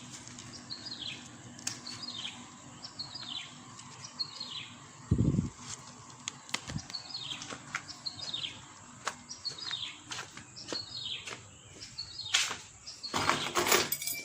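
A bird calling over and over, each call a short chirp sliding downward in pitch, about one every two-thirds of a second. There is a dull thump about five seconds in, and louder scuffing noises near the end.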